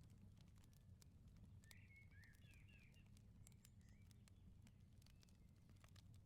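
Faint crackling of a wood fire in a firepit, with scattered sharp pops over a low steady rumble. A bird twitters briefly about two seconds in.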